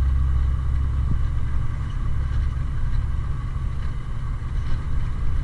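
Kenworth T660 big-rig diesel engine rumbling low and steady, heard from inside the cab, during a clutchless float shift between gears.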